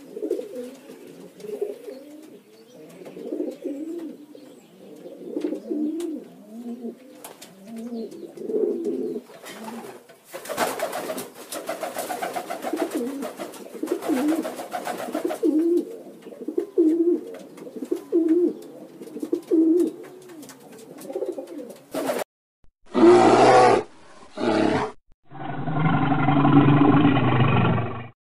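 Pigeons cooing, a string of low repeated coos about one a second. Near the end the cooing cuts off and three loud calls from a different, larger animal follow, the last one drawn out for a couple of seconds.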